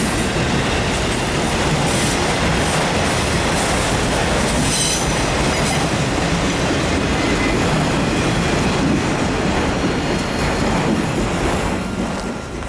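Freight train's autorack cars rolling past, their steel wheels rumbling over the rails with a few brief high wheel squeals. The sound drops off about a second before the end as the last car goes by.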